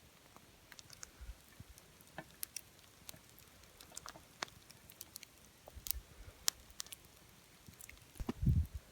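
Scattered small sharp crackles and clicks, irregular and a few each second, then several low thuds near the end.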